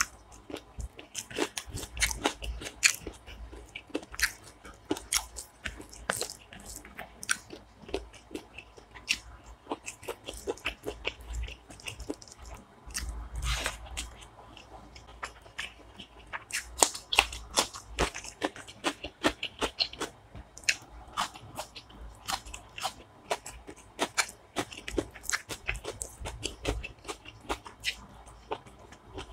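A person chewing and biting chicken gizzard, liver and feet curry with rice, eaten by hand, with many irregular sharp mouth clicks throughout.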